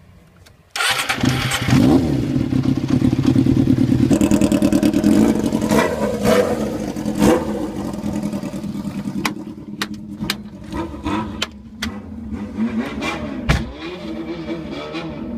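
Yamaha XJR400 inline-four motorcycle engine through a Nakano exhaust, coming in suddenly about a second in and running steadily, then revved in a long series of rising and falling throttle blips: a bōsōzoku-style 'call'.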